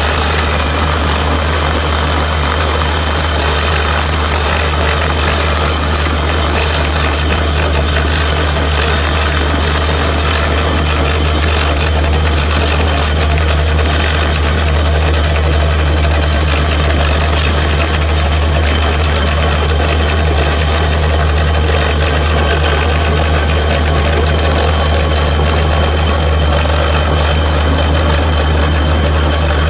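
Borewell drilling rig's diesel engine running steadily under load: a loud, constant low drone with a rough noise over it.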